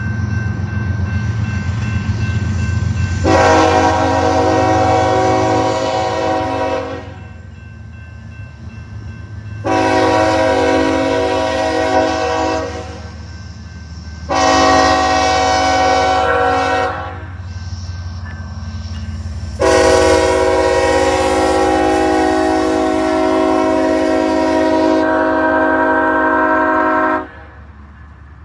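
Diesel freight locomotive's air horn sounding a chord of several notes in the grade-crossing pattern: two long blasts, a shorter one, then a final long blast held for about seven seconds. Under it runs the steady low rumble of the passing train.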